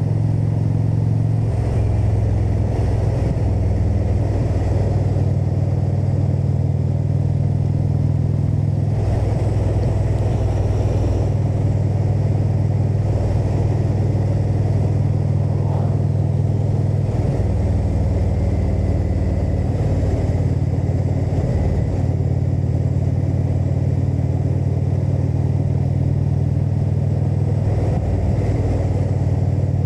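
Indian Super Chief Limited's V-twin running steadily under way on the road, its exhaust note shifting in pitch and load a few times as the throttle changes.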